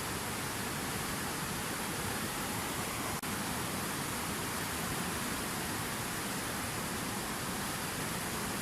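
Water from a fountain waterfall pouring and splashing in a continuous, steady rush, with a brief dip in level about three seconds in.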